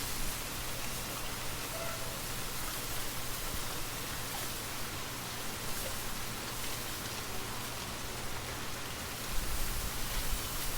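Steady rain falling, an even hiss of drops. A low rumble comes in about nine seconds in.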